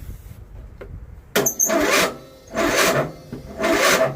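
John Deere 102 riding mower's starter cranking the cold engine in three short bursts, starting about a second in, without the engine firing. The starter is turning the engine too weakly, which the owner treats as a battery that needs the charger to spin it better.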